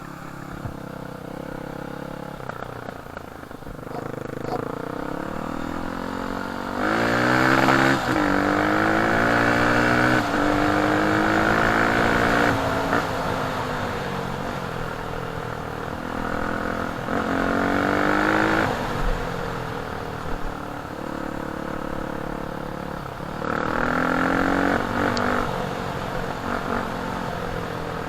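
Off-road dirt bike engine under way, repeatedly opening up and easing off: its pitch climbs sharply about seven seconds in, again around seventeen seconds and near twenty-three seconds, dropping back between the rises.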